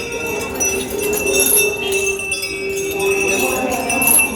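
Metal bells jingling on and off, as from a Kerala temple elephant's bells, over a steady held tone.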